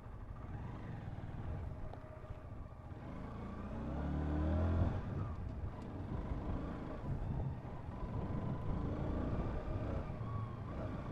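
Honda CBR125 single-cylinder motorcycle engine pulling away. Its revs climb for a couple of seconds, drop about five seconds in, and then it runs on steadily under way.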